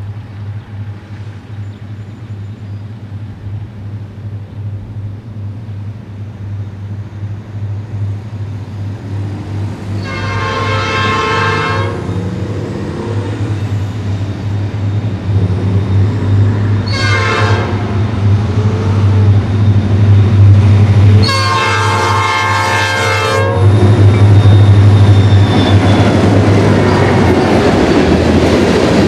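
Norfolk Southern freight train led by EMD SD40-2 diesel locomotives approaching, its engines' low drone growing steadily louder. The locomotive horn sounds three times, long, short, long, about a third, just past half and three-quarters of the way in. Near the end the train passes close by with a loud rumble of wheels and cars.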